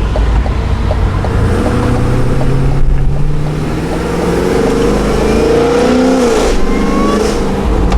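Cadillac Escalade-V's built, cammed supercharged V8 under hard acceleration. The engine note climbs steadily through a gear, drops sharply at an upshift about six seconds in, then starts climbing again.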